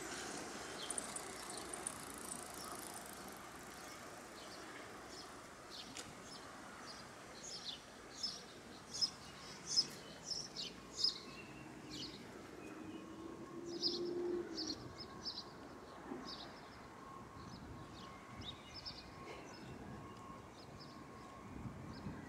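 Birds chirping in short, high calls, thickest in the middle of the stretch, over a steady background of outdoor city noise.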